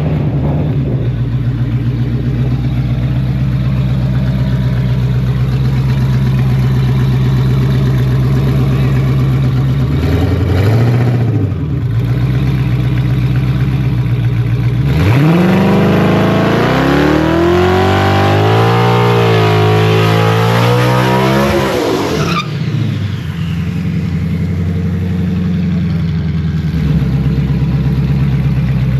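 Twin-turbo Ford Coyote 5.0 V8 in a drag Mustang idling. It gives a short blip about eleven seconds in. About fifteen seconds in it revs up and holds high revs for roughly seven seconds, the pitch wavering up and down, then drops back to idle.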